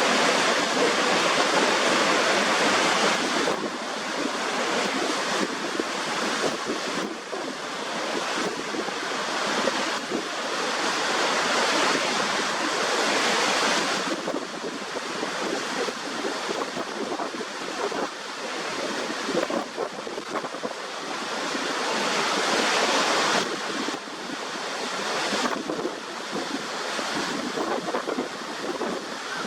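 Waterfall: a steady loud rush of falling water, its tone and loudness shifting abruptly several times, with some wind noise on the microphone.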